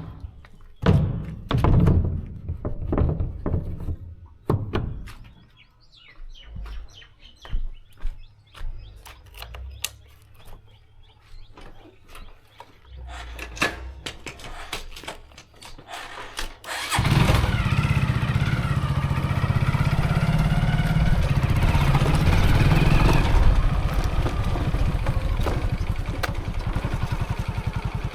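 Scattered knocks and clicks of handling for the first half. About two-thirds of the way in, a motorcycle engine starts abruptly and then runs steadily with a low drone.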